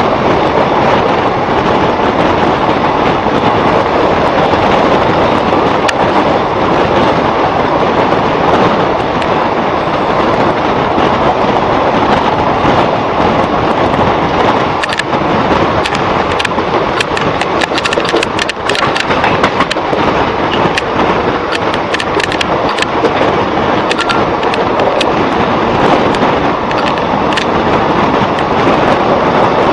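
Indian Railways express train running at speed, heard from an open coach door: a steady loud rumble and rush of wheels on the track and passing air, with many sharp clicks and rattles in the second half.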